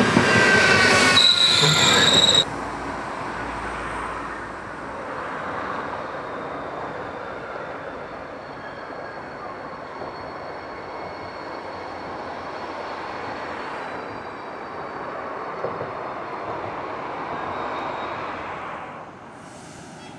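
Double-deck regional electric train passing close, a loud rumble with high squealing tones from the wheels, cut off abruptly about two seconds in. Then a quieter, steady rail rumble as another double-deck electric train approaches, dropping away again near the end.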